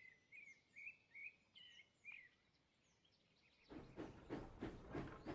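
Faint bird chirps: a run of short, high calls over the first two seconds, then near silence. A faint, evenly pulsing sound begins near the end.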